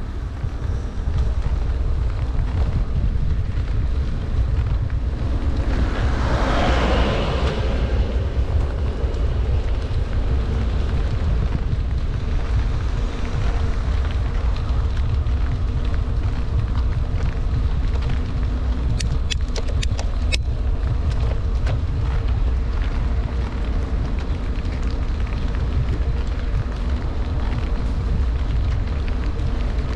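Wind buffeting the microphone of a camera on a bicycle descending fast in heavy rain, a steady deep rumble with the hiss of wet road and rain over it. The hiss swells briefly about six seconds in, and a few sharp clicks come about twenty seconds in.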